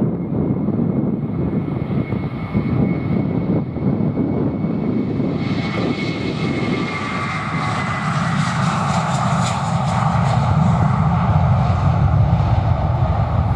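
Jet airliner's engines at high power, growing louder from about five seconds in, with a thin high whine that slowly falls in pitch. Wind rumble on the microphone underneath.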